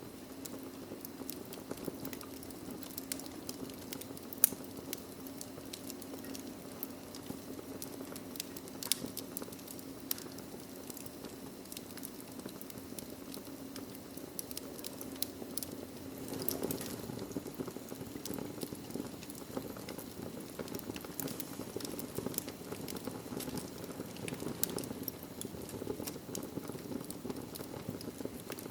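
Wood fire in a fireplace crackling, with frequent small pops over a steady low background, and one sharper pop about four seconds in.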